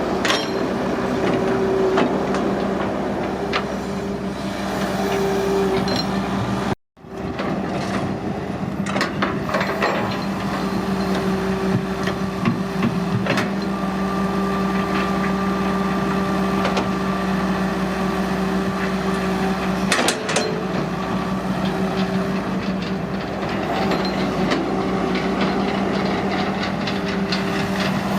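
Excavator's diesel engine running at a steady pitch, with scattered metallic knocks and clanks from the machine working. The sound drops out abruptly for a moment about a quarter of the way through, then resumes.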